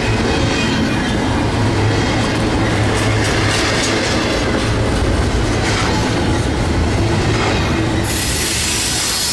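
A freight train rolls past close by, its steel wheels clacking over the rail joints, with a high wheel squeal.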